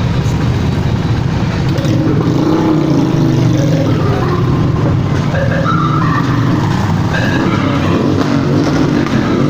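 Several motorcycle engines running together in a parade, a steady loud rumble with individual bikes revving up and down as they go by.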